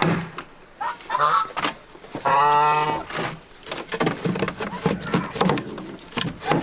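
Farm fowl calling: one long honk about two seconds in, with shorter calls around it and a few sharp knocks.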